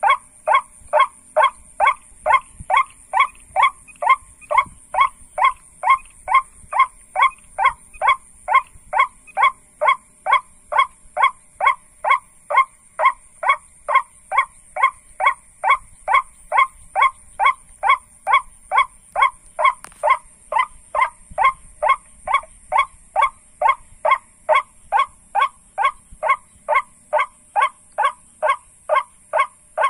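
Steady, evenly spaced 'kwak' calls of white-breasted waterhen type, about two and a half a second without a break, as used to lure ruak-ruak. A steady high insect drone runs underneath.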